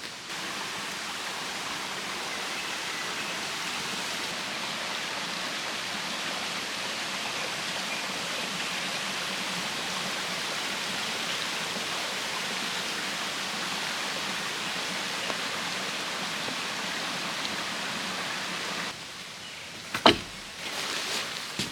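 Steady rushing of a flowing stream. Near the end it gives way to quieter surroundings with a sharp knock and then a lighter one.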